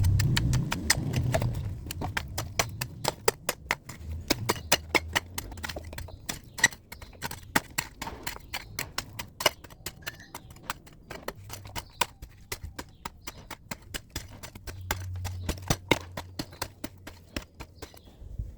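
A rapid, irregular series of sharp knocks and clicks, several a second, over a faint low hum.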